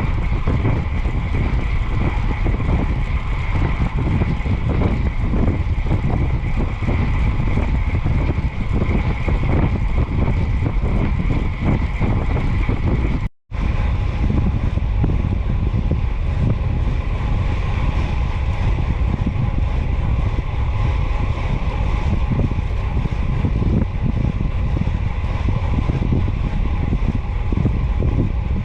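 Wind buffeting the microphone on a bicycle ride at speed: a steady, loud low rumble with a faint steady whine above it. The sound cuts out completely for an instant about halfway through.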